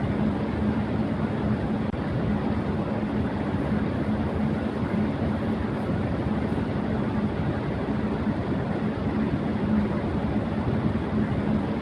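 Electric fan running at high speed: a steady rush of air with a constant low hum from the motor.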